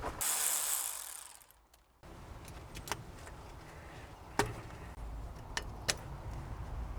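A brief hiss, then scattered sharp metallic clicks and clinks of hand tools on a car's brake and suspension parts.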